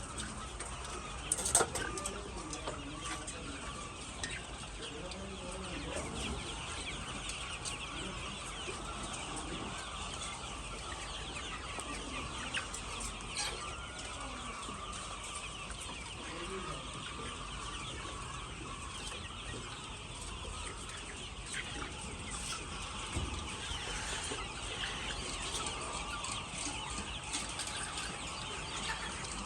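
A flock of chickens clucking and calling without pause, a dense chatter of many overlapping calls. A single sharp knock comes about a second and a half in.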